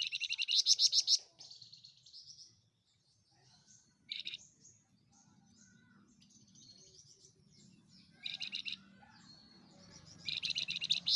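Flamboyan songbird singing: four short bursts of rapid, high trilling spread through the passage, with softer chirps between them.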